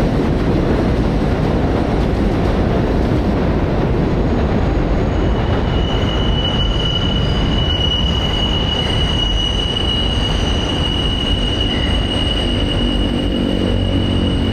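New York City subway train running on the rails with a loud steady rumble; about five seconds in, a high, steady wheel squeal sets in and holds to the end.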